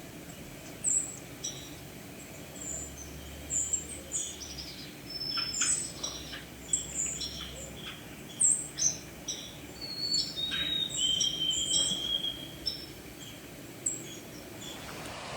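Songbirds chirping and calling: many short, high chirps and whistles from several birds, with one longer held whistle about eleven seconds in.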